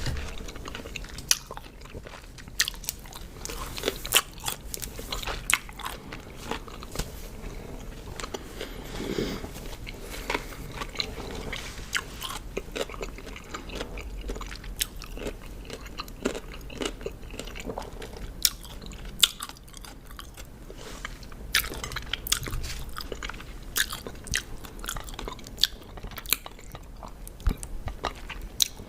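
Close-miked chewing of raw cucumber: crisp, wet crunches, with sharp loud crunches every second or so over continuous crackling chewing.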